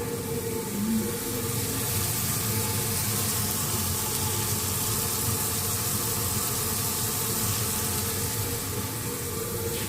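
Chicken frying in a pan, a steady sizzle over a low, even hum.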